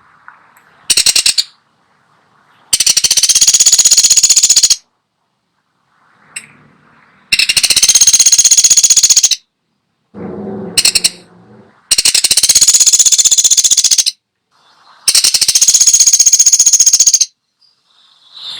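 Woodpecker giving rapid rattling trills, four bursts of about two seconds each with short gaps between, plus a brief one about a second in.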